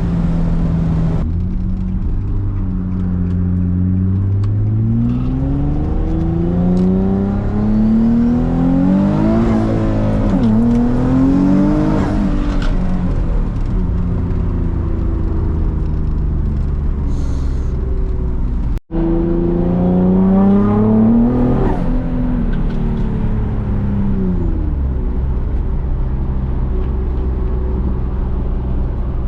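Twin-turbocharged 2006 Nissan 350Z's 3.5-litre VQ35DE V6 accelerating through the gears, its pitch climbing and dropping back at each upshift, then settling to a steady cruise. The sound cuts out for an instant about two-thirds of the way through, then the engine pulls up through the revs once more before easing off.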